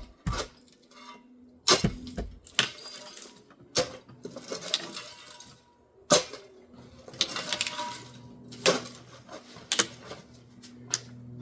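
Shovel scraping across a floor and scooping up demolition rubble, with irregular sharp clatters and clinks of debris between longer scrapes.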